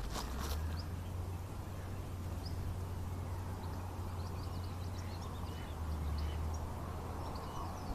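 Scattered short, high bird chirps and calls over a steady low rumble of wind on the microphone.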